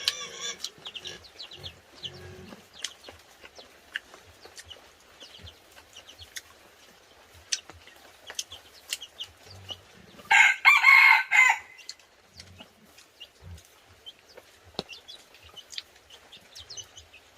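A rooster crowing once, a loud call of about a second and a half starting about ten seconds in, among scattered faint clicks and knocks.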